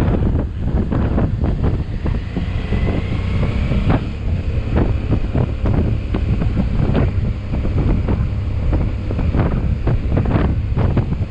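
Wind buffeting the microphone on a moving motorbike, with the engine running underneath. A faint rising whine comes in about two seconds in.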